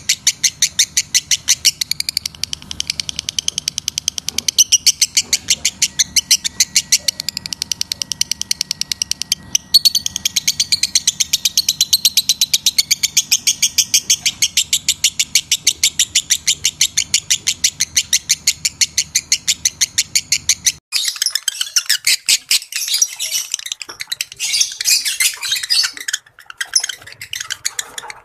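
Lovebird calling in a long, fast, even run of high chirps, about seven a second, over a faint low hum. About 21 seconds in, the run breaks off and gives way to irregular chattering chirps.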